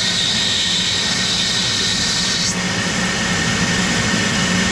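Vacuum cleaner running steadily, its nozzle held over an air hole in a wood stove to suck ash out of the welded-in air channel, with a high whistle of air that shifts abruptly about halfway through.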